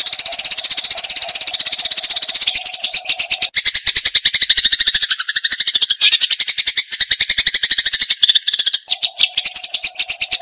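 Eurasian tree sparrows giving fast, harsh fighting chatter: a rapid unbroken run of short notes, with a lower, falling stretch of calls through the middle.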